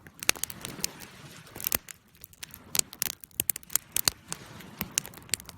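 Fire burning in a fireplace, crackling with many sharp, irregular pops over a soft low hiss.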